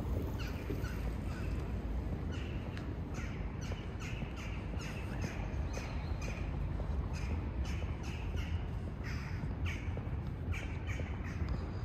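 Birds calling: many short, repeated calls in quick, irregular succession, over a steady low rumble.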